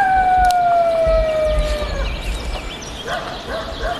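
A rooster crowing: a wavering start settles into a long, slowly falling held note that ends about two seconds in, and a second crow begins near the end. Small birds chirp faintly in the background.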